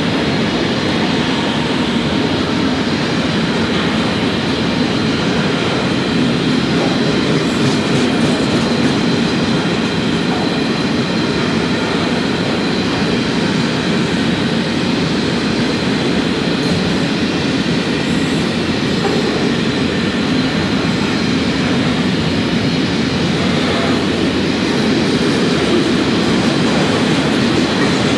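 Long container freight train's wagons rolling past, a steady rumble and clatter of steel wheels on the rails.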